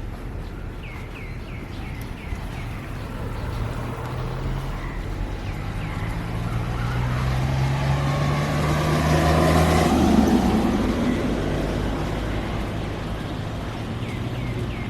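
A motor vehicle's engine hum swells to a peak about two-thirds of the way through and then fades as it passes by. Short bird chirps come near the start and again near the end.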